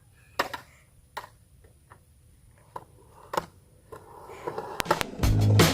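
A few sharp, scattered clicks and taps, then a rising rush about four seconds in that turns into a loud low rumble near the end: skateboard wheels starting to roll on concrete.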